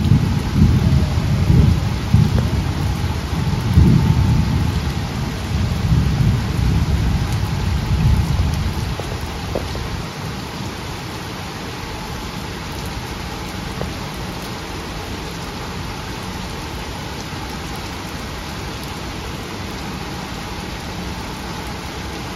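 Heavy rain falling steadily onto a flooded road, a dense hiss. A deep, uneven rumble runs under the rain for the first half and dies away about ten seconds in.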